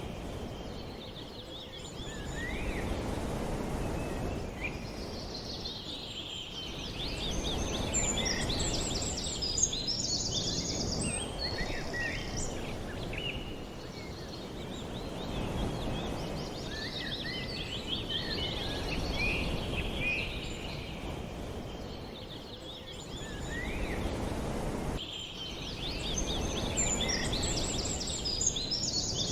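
Outdoor bird ambience: many small birds chirping and trilling in high, quick notes over a low background rush that swells and fades every several seconds.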